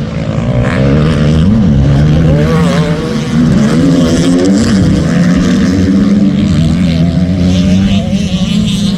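Motocross bike engines running and revving together, several pitches rising and falling against one another.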